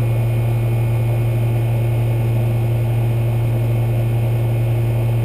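Central air conditioner's outdoor condensing unit running steadily, its compressor giving a strong low hum under the rush of the condenser fan, while the system is being charged with refrigerant.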